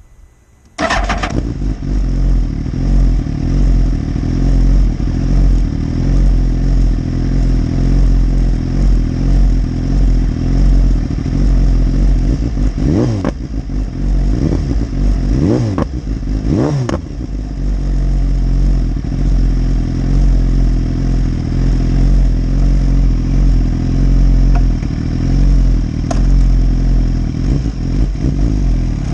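2015 BMW S1000RR's inline-four engine running steadily, with three quick revs up and back down in the middle.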